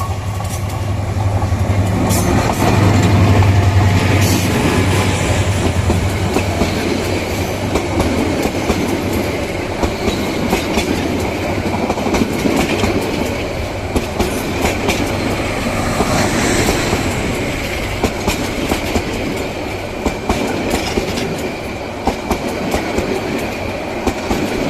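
Bangladesh Railway train running past: a diesel locomotive's low engine drone, loudest about three to four seconds in and fading after about six seconds, then a steady clatter of wheels over rail joints as the coaches go by.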